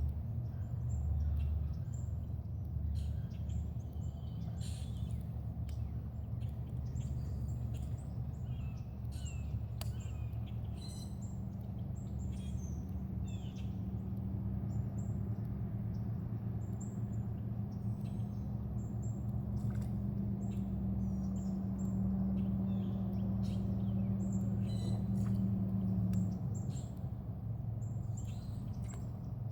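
Several birds chirping and calling in short, scattered notes, over a steady low hum from a source that cannot be identified. One tone of the hum stops near the end.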